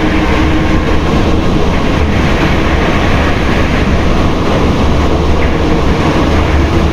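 Inside an Alstom NS-93 rubber-tyred metro car running between stations: a steady, loud rumble and hiss of the moving train, with a faint steady whine in the first second or so that fades out.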